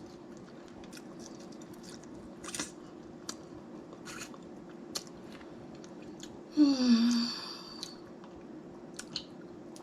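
Close-up chewing and eating of snow crab legs, with scattered short clicks and crackles. About two-thirds of the way in there is a short hummed 'mmm' whose pitch slides down.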